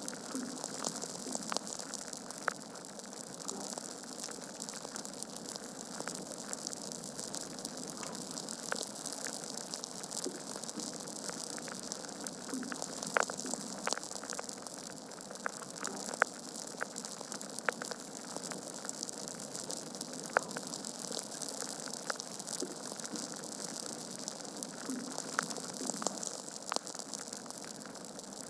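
Wood fire burning in a fireplace: a steady hiss with irregular crackles and several louder pops of the burning logs.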